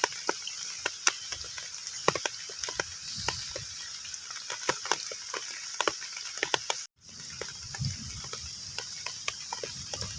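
Heavy rain falling on a pond: a steady hiss with many separate drops plinking into the water. The sound cuts out for an instant about seven seconds in.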